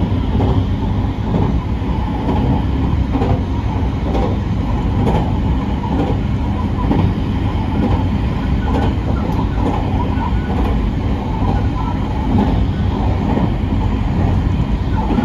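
Marine Liner rapid train running at speed, heard from inside the car: a steady low rumble of wheels and running gear with faint clicks from the rails.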